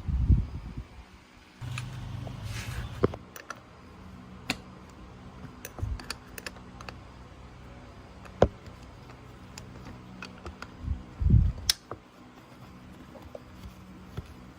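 Metal tools and parts clinking and clicking as they are handled, with two heavy thumps, one right at the start and one about eleven seconds in, and a brief low hum about two seconds in.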